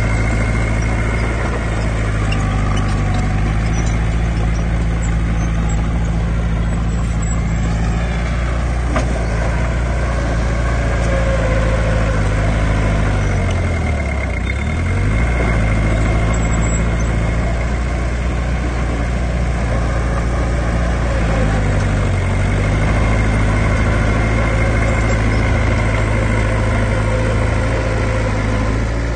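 Heavy diesel engine of earthmoving equipment running steadily. Its speed dips and recovers three times, most deeply about halfway through.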